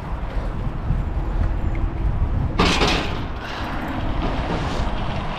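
Steady low rumble of wind on the microphone and bicycle tyres rolling on gravel, with a sudden loud rush of noise about two and a half seconds in that fades over the next couple of seconds.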